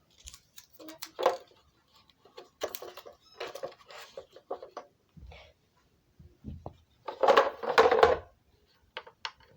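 Handling sounds of a plastic straw and sticky tape being fitted onto a plastic toy truck: scattered small clicks and rustles, with a louder crackling burst about seven seconds in.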